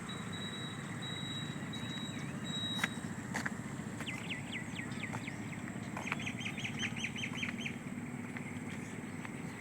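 Small birds calling: a thin high whistle at first, then repeated short falling chirps and a quick run of about eight chirps over a steady low rumble.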